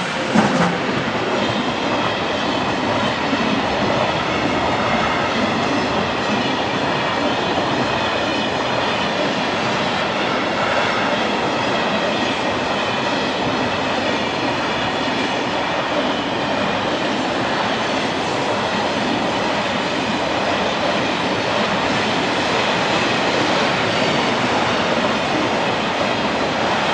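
Freight train of open wagons rolling past at close range, a loud steady rumble and rattle of steel wheels on the rails. It peaks briefly at the very start as the Bombardier TRAXX electric locomotive goes by.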